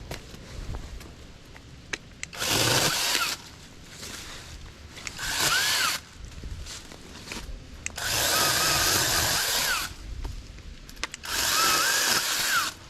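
Saker 20-volt cordless mini chainsaw on a pole extension, run in four short bursts of a second or two each as it cuts limbs. Within each burst the motor's whine rises and then drops under load.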